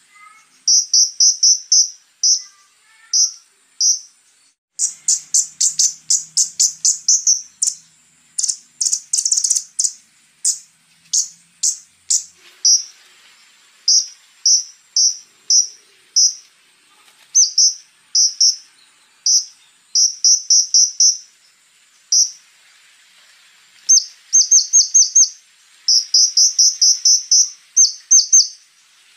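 Konin songbird singing: series of short, sharp, high-pitched notes fired several a second, broken by brief pauses, with a denser rapid run of notes about a third of the way in. A faint steady high-pitched tone runs underneath.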